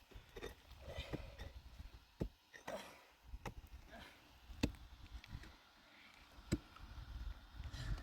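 Scattered sharp knocks and clicks at irregular intervals, the loudest about halfway through, over a faint low rumble.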